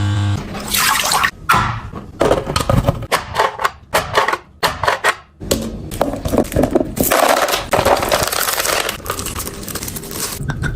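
Food packaging and plastic containers being handled: irregular rustling and crinkling stretches broken by clicks and clacks. A short steady hum stops just after the start.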